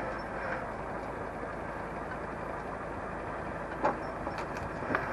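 Tractor engine running steadily while it powers a log-grab crane, with two short knocks near the end as logs are handled.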